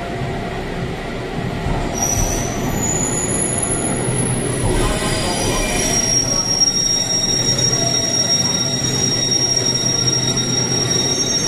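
Echizen Railway MC6101-series electric train pulling into the platform and slowing, with a low running rumble. A high-pitched squeal starts about two seconds in and grows into one strong steady squeal from about halfway.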